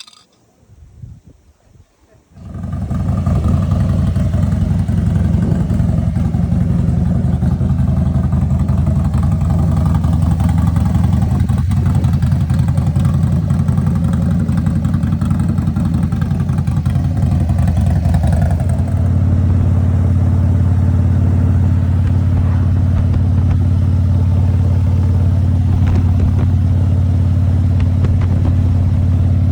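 Harley-Davidson Road Glide Ultra's V-twin engine catching after a couple of seconds of small clicks and then running loudly. It is the first start after about two years of storage. About two-thirds of the way in, the running settles into a steadier idle.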